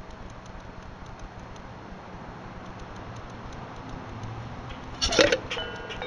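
Faint, even ticking, then about five seconds in a loud, harsh, squeaky grackle call that slides in pitch, followed by a few short ringing tones.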